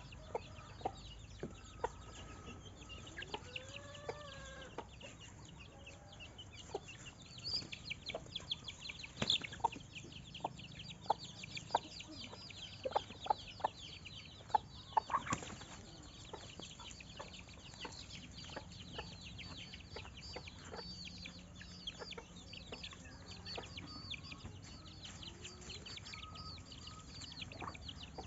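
Chickens clucking, with a cluster of short sharp calls in the middle stretch, over continual thin high chirping.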